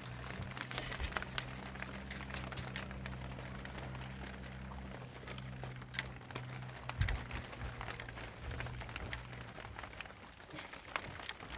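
Rain pattering in scattered, irregular drops, over a low steady hum that fades out about nine seconds in.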